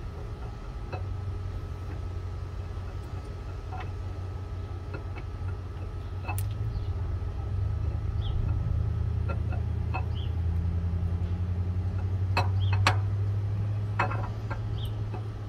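A steady low motor hum, louder in the second half and stopping near the end, with scattered light metallic clicks and taps as a camshaft is slid slowly into an LS V8 engine block.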